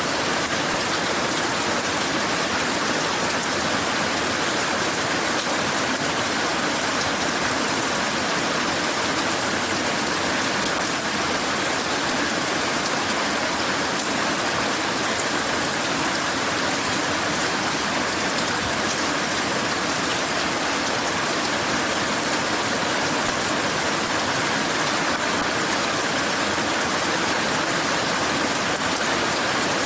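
Steady rainfall, a constant even hiss of rain coming down.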